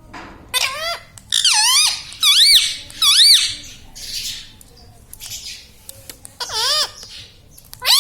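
Indian ringneck parakeet giving a series of shrill squawking calls, each sweeping up and down in pitch: four in quick succession in the first three and a half seconds, then two more near the end.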